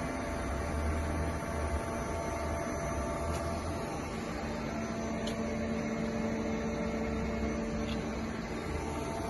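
Okuma MC-4-VA vertical machining center running: a steady mechanical hum with several steady whine tones, which change pitch about four seconds in.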